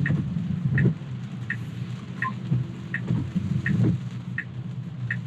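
Tesla turn-signal indicator ticking steadily about once every 0.7 seconds, over low cabin and road noise in the rain.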